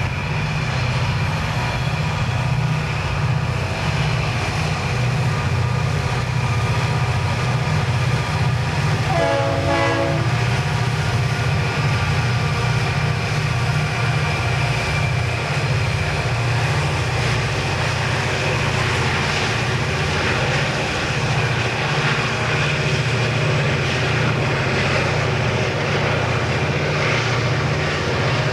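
Diesel locomotive engines running, a loud steady deep drone, with a short horn note about nine seconds in.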